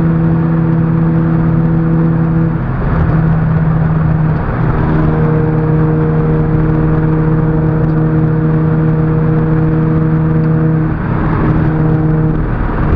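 Car engine running under steady load with tyre and road noise, heard from inside the cabin while driving at road speed. The engine note breaks off briefly about three times and comes back at a slightly different pitch.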